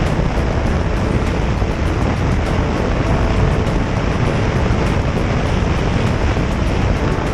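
Motorcycle riding at a steady speed: a constant rush of wind over the microphone mixed with engine and road noise.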